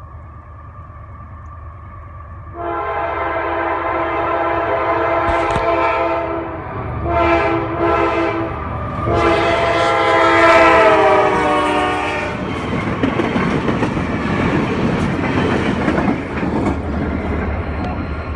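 A CSX freight locomotive's horn sounds several blasts from a few seconds in, the last one long. Then the diesel locomotives and their wheels rumble and clatter past on the rails.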